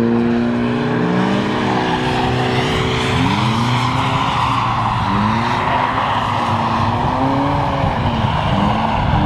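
Drift car engines on a wet track: revs held steady for about three seconds, then rising and falling with throttle as the cars slide, over continuous tyre and spray noise.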